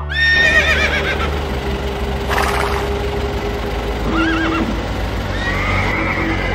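Horse whinnies, a recorded sound effect: a long wavering whinny at the start and a shorter one about four seconds in.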